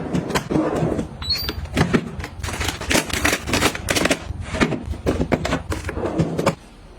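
A quick, irregular run of clacks and taps from items being handled and set down while restocking, stopping abruptly about six and a half seconds in.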